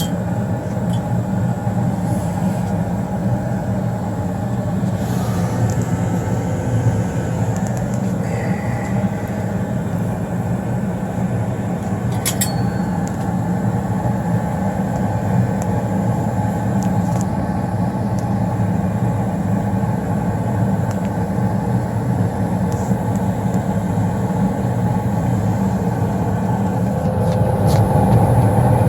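Newly installed 90% gas furnace running steadily, its burners and blower making a constant low rumble, with a brief click about twelve seconds in.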